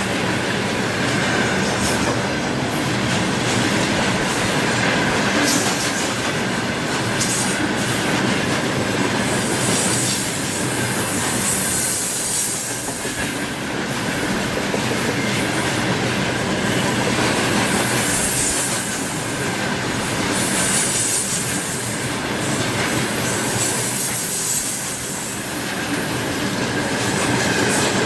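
Freight train wagons rolling past at a steady loud level: wheels clatter over the rail joints, with a high wheel squeal that swells and fades several times.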